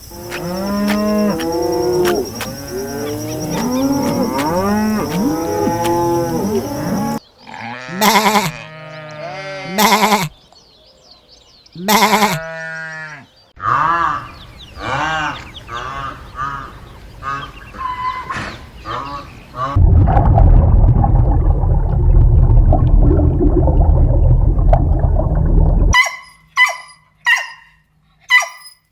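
A series of farm-animal calls, mostly cattle mooing, many overlapping at first and then single loud calls. About two-thirds through comes a stretch of loud rough noise lasting several seconds, and near the end a run of short, quick clucks.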